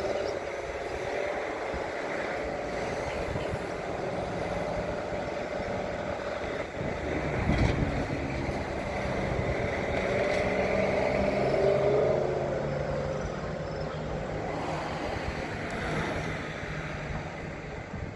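Drill rig truck's engine running steadily while drill pipe is run back down the hole. It swells louder near the middle, with a wavering whine, and there is a single knock about seven and a half seconds in.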